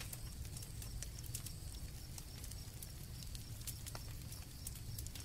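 Campfire crackling, with scattered sharp pops and a low steady rumble of the burning fire, under a faint high steady chirring of crickets.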